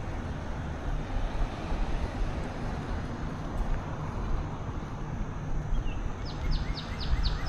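Steady wind and rolling noise on the microphone from a bicycle being ridden along a trail. Near the end a bird starts a rapid, high trill of about eight chirps a second.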